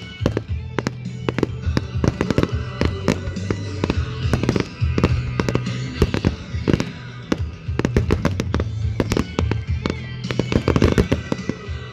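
Fireworks bursting in rapid succession, many sharp bangs and crackles close together, over loud music with a steady bass line.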